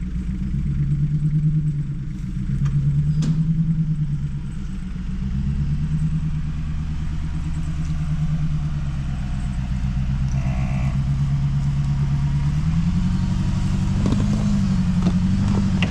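An off-road vehicle's engine running under load on dirt, its revs swelling and easing several times. There is a sharp knock about three seconds in and a few lighter knocks near the end.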